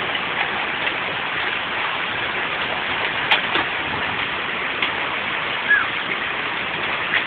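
Heavy rain from a hail storm pouring steadily onto a wooden deck and walkway, an even hiss with a few sharp ticks of hailstones striking.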